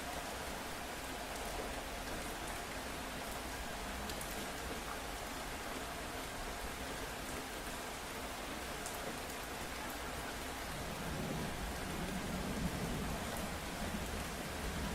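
Steady rain falling, an even hiss, with a low rumble of thunder rising in about two-thirds of the way through.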